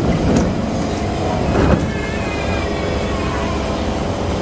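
Onboard running noise of a Kawasaki C151 MRT train: a steady rumble of wheels on track, with a faint gliding whine above it and two louder knocks in the first two seconds.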